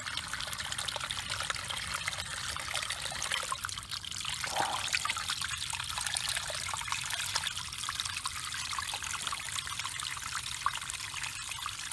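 Small stream of cold runoff from the land trickling and splashing into the river: a steady, fine water sound, with a brief louder swell about four and a half seconds in.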